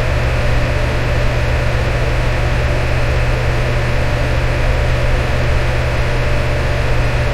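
Electric fan running steadily: an even rushing of moving air over a low motor hum.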